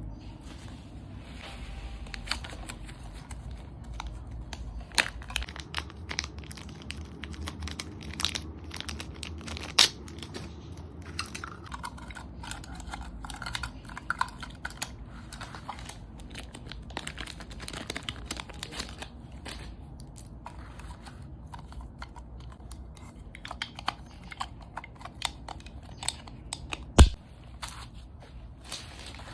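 Hands handling plastic and paper packaging: crinkling, rustling and tearing, with many small clicks and taps, a short squeak about halfway through and one sharp tap near the end.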